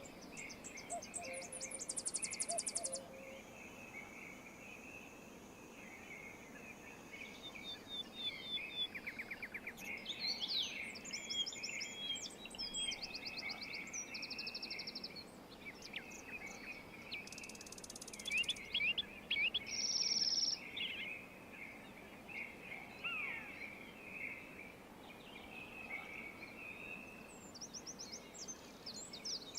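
Several songbirds singing and calling, with fast high trills and short chirps over a constant chatter of chirping and a soft background hiss.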